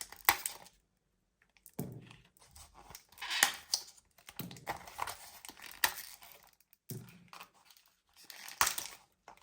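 Crunchy bead-shaped candies being bitten and chewed: a series of crackly crunches in bursts with short pauses between them.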